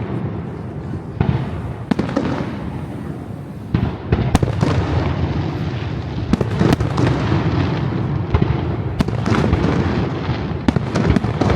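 Aerial fireworks display going off: many sharp bangs in quick, irregular succession over a continuous low rumble of booms.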